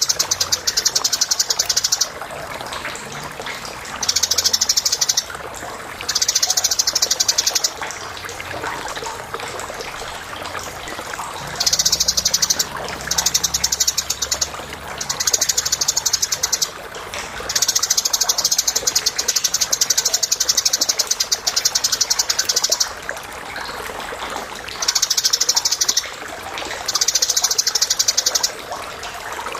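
Eurasian tree sparrows chattering: bouts of rapid, high chirps lasting one to five seconds, broken by short pauses, over a steady background noise.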